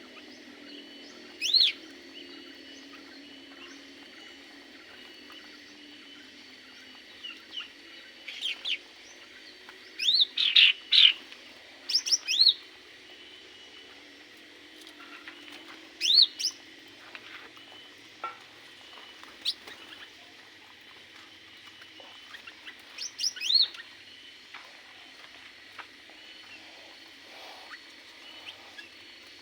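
Aviary birds giving short, sharp chirps every few seconds, sometimes two or three in quick succession, over a low steady background.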